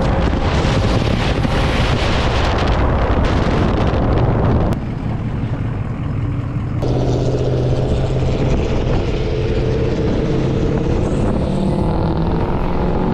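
Motor vehicle on the move: a loud rushing of wind and road noise, then, from about seven seconds in, a steady engine drone that rises slightly in pitch.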